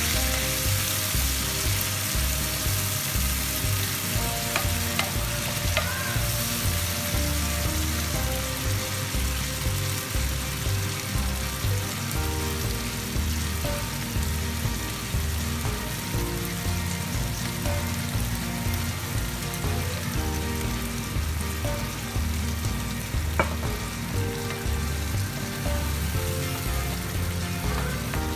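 Diced tomatoes and onions sizzling in hot oil in a nonstick pan, stirred now and then with a wooden spoon. Soft background music with a steady low beat plays underneath.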